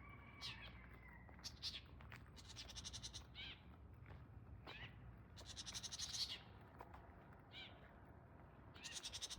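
Wild birds calling: scattered short chirps and down-sweeping notes, with three rattling, buzzy calls spaced about three seconds apart, over a faint low rumble.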